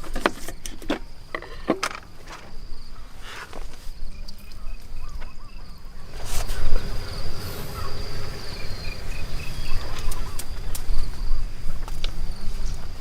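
Insects drone steadily on one high note, with two short runs of quick chirps. Over this come close knocks and handling or rustling noises and a low rumble, loudest about seven seconds in.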